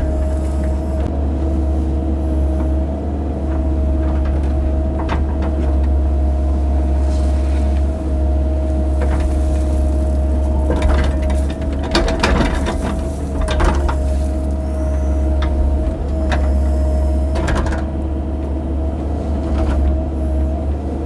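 Excavator running steadily with a constant low rumble and a steady tone, as the bucket digs dirt for a trench, with a few knocks and scrapes along the way.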